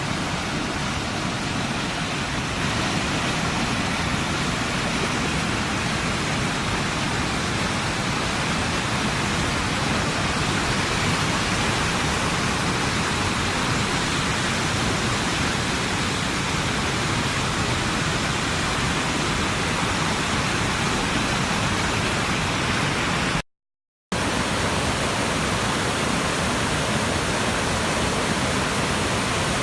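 Steady rushing roar of fast-flowing floodwater. It drops out for a moment about three-quarters of the way through.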